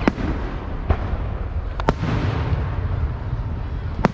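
Fireworks going off: several sharp bangs about a second apart, over a steady low rumble.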